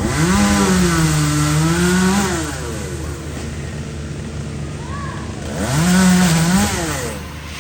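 Two-stroke chainsaw throttled up twice over a low idle: a first burst of about two seconds whose pitch sags in the middle and rises again before dropping back, and a shorter second burst about six seconds in.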